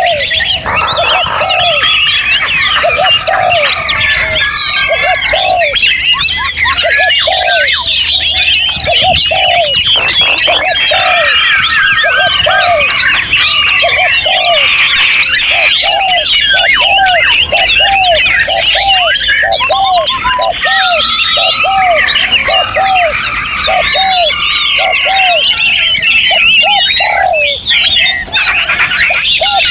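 Dense chorus of many songbirds singing at once, a busy tangle of chirps, whistles and trills, with a short low note repeated over and over throughout.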